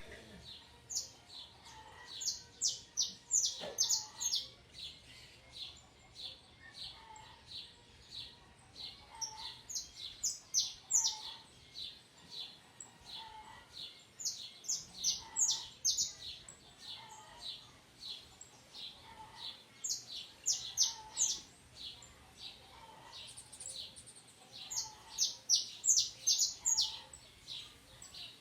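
Small birds chirping: quick runs of high, rapid notes in clusters of a few seconds, with a softer, lower call repeating about once a second underneath.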